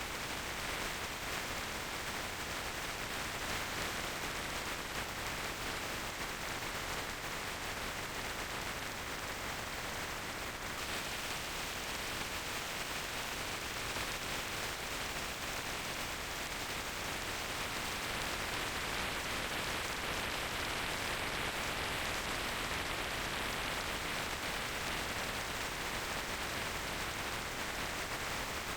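Steady rushing hiss of wind noise on the microphone of a moving motorcycle, with no engine note standing out; the upper part of the hiss shifts slightly about ten seconds in.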